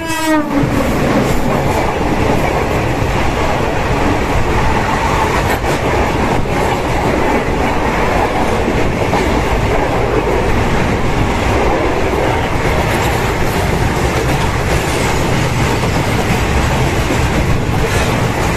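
Steady rumble and rail clatter of a moving train, heard through the open, barred window of a coach, with a short falling tone at the very start. Another train runs past on the adjacent track.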